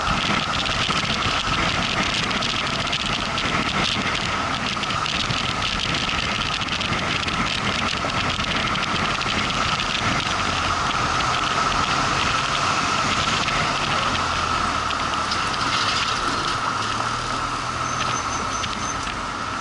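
Motorcycle riding at a steady pace: engine running under continuous road and wind noise on the microphone, with a steady whine throughout.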